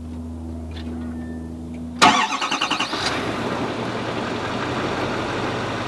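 A steady low hum, then about two seconds in a car engine cranks with a quick run of pulses, catches, and settles into a steady run.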